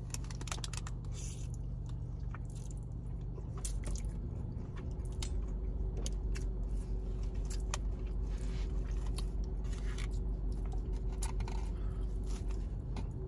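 Close-up chewing of a mouthful of spaghetti, with wet mouth sounds and scattered small clicks over a steady low hum.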